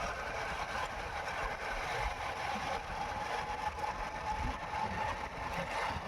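Motorcycle engine running steadily while riding, with road noise and low, uneven wind rumble on the microphone.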